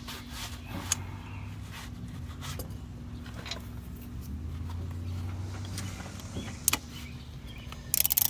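Hand tools working the last thread of a starter bolt loose on a 1956 Willys Jeep: scattered metallic clicks and taps, then a quick run of louder clicks near the end, over a steady low hum.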